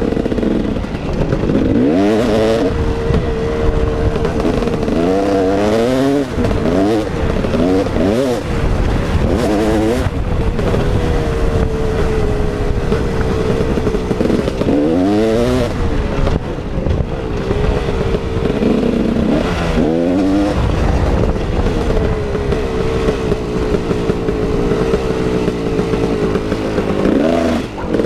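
KTM 380 EXC two-stroke dirt bike engine being ridden hard. Its pitch climbs under throttle and drops back again and again as the revs rise and are chopped off.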